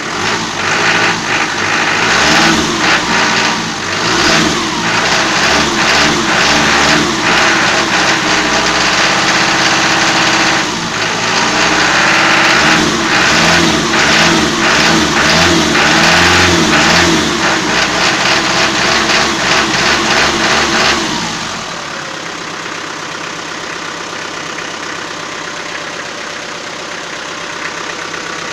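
Toyota 4B four-cylinder diesel engine revved with repeated throttle blips and sharp knocking for about twenty seconds, then dropping back to a steady idle near the end. The owner likens the knock to too-early injection timing; it persists after the injection pump was rebuilt with new plunger pair and nozzles, and is worst when throttle is given just after revving.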